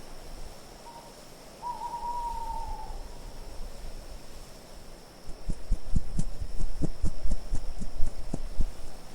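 An owl gives one drawn-out hoot that falls slightly in pitch, over a steady hiss of wind. Starting about five seconds in, a run of irregular soft knocks is the loudest sound.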